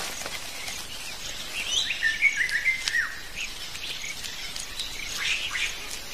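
Forest birds chirping and calling, a jumble of short whistled notes and quick up-and-down slurs, busiest a couple of seconds in, over a faint hiss of forest ambience.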